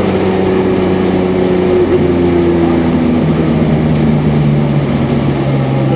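The supercharged BMW E46 M3's 3.2-litre straight-six running at a fairly steady engine speed, heard from inside the cabin. Its pitch drops slightly in two small steps.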